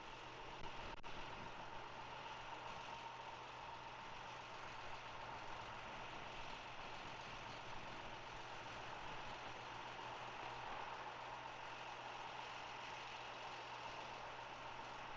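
Faint, steady engine idling with a low hum, and a single sharp click about a second in.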